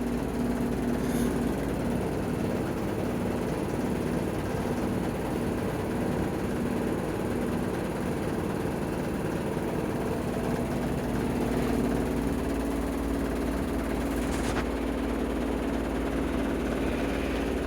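Washing machine in its spin cycle, the drum spinning at a steady speed with a constant hum and rumble.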